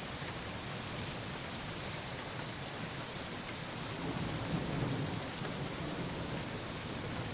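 Steady rain falling, with a low roll of distant thunder swelling about four seconds in and fading over a second or two.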